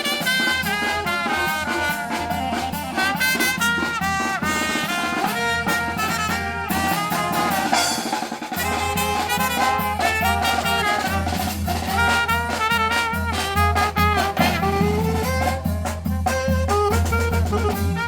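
A marching brass band playing a lively tune, trumpets and trombones carrying the melody over a steady low drumbeat.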